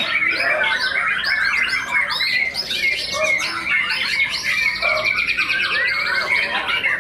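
Caged white-rumped shamas (murai batu) singing at once, a dense tangle of overlapping whistles and chattering phrases, with a fast even trill about four seconds in.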